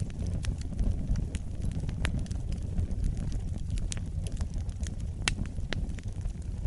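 Fireplace fire crackling: irregular sharp pops and snaps over a steady low rumble of flames. The loudest pop comes about five seconds in.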